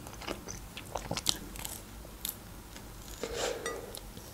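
Close-up chewing and biting of a slice of pizza, with scattered crisp crunches of the crust.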